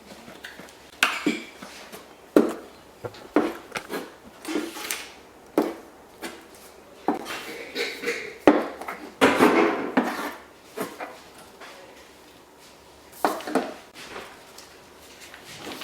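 Paper and craft things being handled on a tabletop: irregular rustles, taps and knocks as a cut-out paper piece is positioned and pressed down, with a louder cluster of rustling about two-thirds of the way through.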